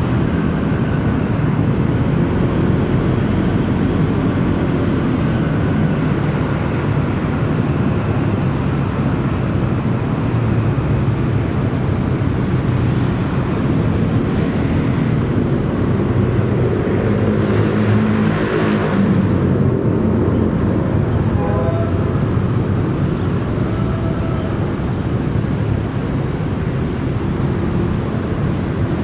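Motorcycle engine running steadily while riding in busy city traffic, with wind and road noise. Another vehicle passes loudly about two-thirds of the way through.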